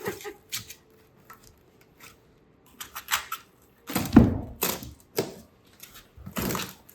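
Irregular knocks, clatters and scrapes from handling a nailed wooden shipping crate and its packing, sparse at first, then heavier thuds from about three seconds in, the loudest around four seconds.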